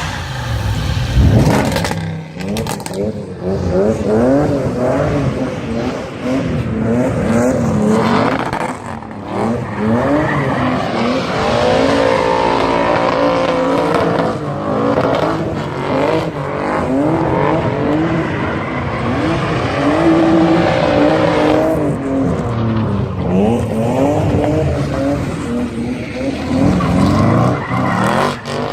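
Twin-turbo V8 car accelerating hard, the engine note climbing in pitch and dropping back at each upshift, several times over.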